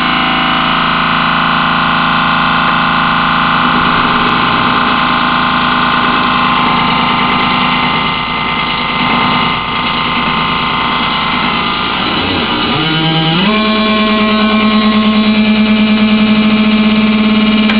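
DIY modular synthesizer drone: a sine wave from an MFOS ring modulator folded by a CGS wave folder, then sent through an MFOS phase shifter and a CGS Synthacon filter swept by an LFO, giving a sustained tone thick with overtones. About twelve seconds in, the pitch glides and steps up, then holds steady.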